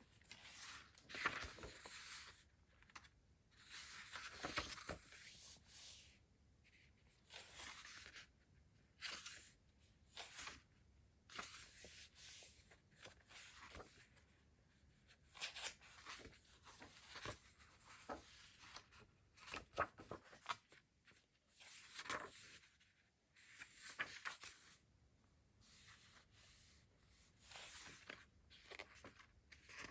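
Packaging being handled and opened: bursts of soft rustling and crinkling, with occasional tearing and small sharp clicks and taps, coming in short irregular bouts with quiet gaps.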